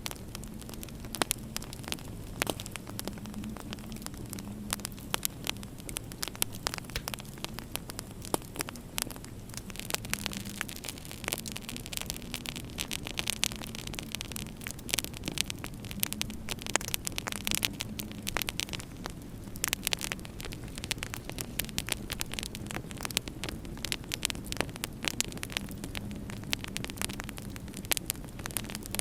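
Wood fire in a fireplace crackling, with irregular sharp pops and snaps, over a steady low hum and hiss.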